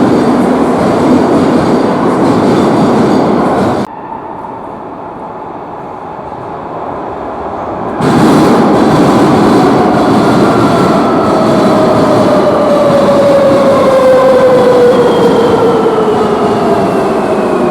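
Madrid Metro underground train running through a station with heavy rail and wheel noise. The sound drops abruptly to a quieter rumble at about 4 s and jumps back at about 8 s. From there the train's motor whine falls steadily in pitch as it slows.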